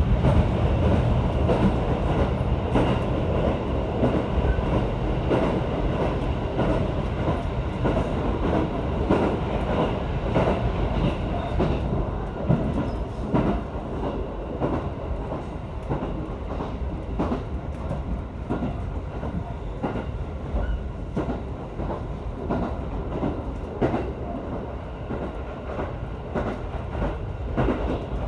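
JR 313-series electric train running along the line, heard from inside the car: a steady low rumble with many wheel clicks over rail joints, easing slightly in loudness through the second half.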